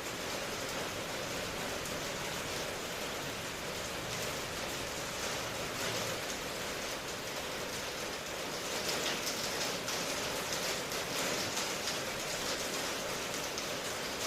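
Steady rain falling, an even hiss with the patter of many drops, getting a little heavier about nine seconds in.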